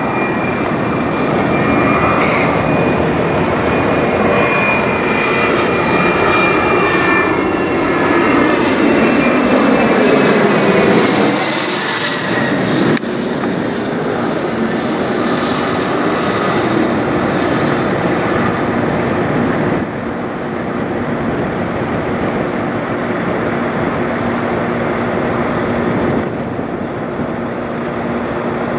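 Embraer Praetor 500 business jet passing overhead on its twin turbofan engines. A high whine slides slightly down in pitch under a broad jet rush that swells to its loudest about ten to twelve seconds in, then settles into a steady rumble.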